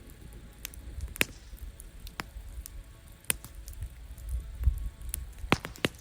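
Wood fire crackling: sharp, irregular pops about a second apart, several close together near the end, over a low rumble.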